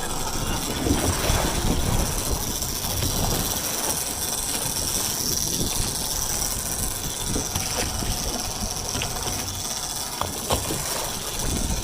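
Heavy machinery running with a steady rumble and high hiss, with a few short clanks in the second half.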